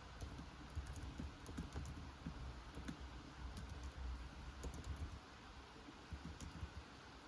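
Computer keyboard typing in irregular runs of keystrokes over a steady hiss of rain. A low rumble underneath eases off about five seconds in.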